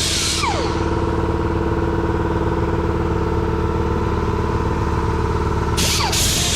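Gas-engine pressure washer running steadily. Its spray hiss stops about half a second in with a short falling whine, then starts again near the end.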